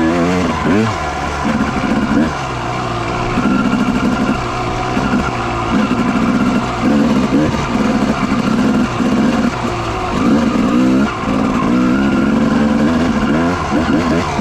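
Dirt bike engine being ridden hard on a trail. Its pitch climbs and drops back again and again as the throttle is opened and rolled off.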